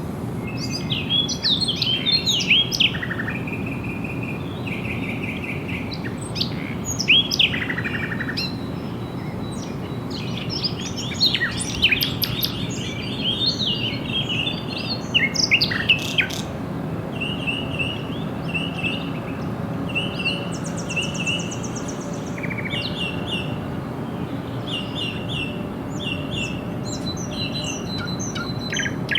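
Several songbirds singing and chirping together, with whistled phrases and rapid chirps crowding the first half and shorter repeated notes after, over a steady low background hum.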